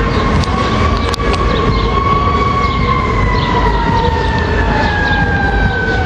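Fire truck siren in one long wail that slowly falls in pitch, over the heavy low rumble of the truck and traffic.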